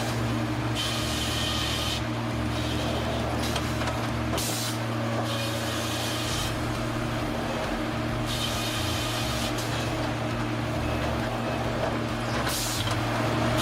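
Sawmill machinery running with a steady hum, broken by repeated hissing spells of one to two seconds that start and stop abruptly.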